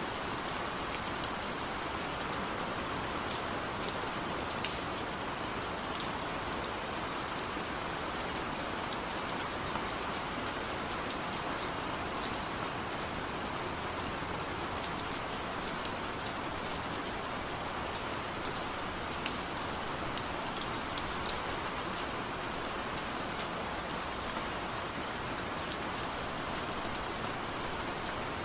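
Steady rain falling, with a dense even hiss and scattered individual drops ticking on a surface.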